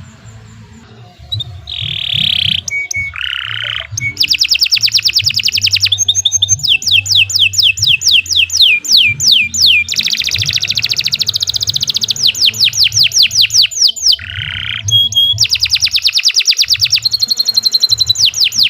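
Domestic canary singing a long, continuous song: fast trills of rapidly repeated notes, runs of slower down-sweeping whistles, and a few short harsh buzzy notes, after a brief pause at the start.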